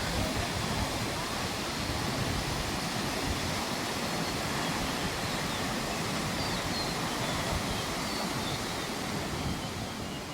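Steady rushing water, like a mountain river or waterfall, with a few faint high chirps about halfway through.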